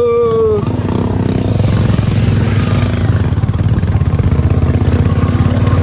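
Royal Enfield Bullet's single-cylinder engine running with a rapid, steady thumping beat.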